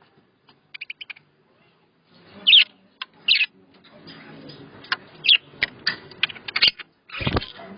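Budgies chirping in short calls: a quick faint series about a second in and two louder calls around two and three seconds. These are followed by a string of sharp clicks and a low thump near the end.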